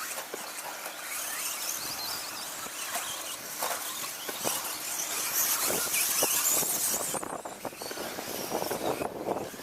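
Radio-controlled 2WD stadium trucks racing: high-pitched whine from the motors and drivetrains, with scattered knocks, loudest a little past the middle.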